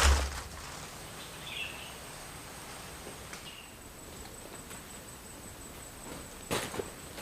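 Forest background with a steady high insect whine and two short bird chirps. Near the end come a couple of crunching footsteps.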